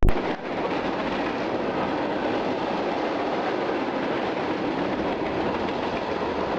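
Freight train rolling past, a steady rumble of wheels on rail. A brief dropout and a click come at the very start.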